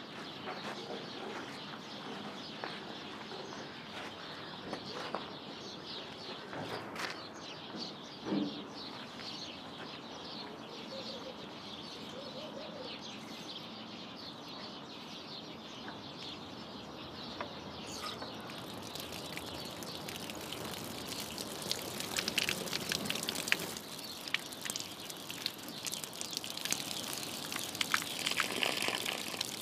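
Small birds chirping over outdoor ambience, with scattered short clicks and scrapes that grow denser in the second half.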